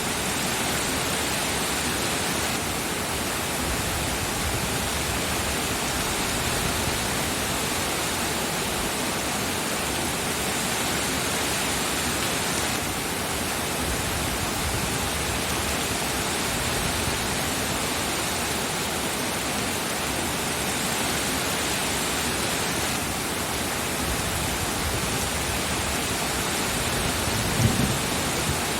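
Steady heavy rain, an even hiss with no breaks. Near the end comes one brief low thump.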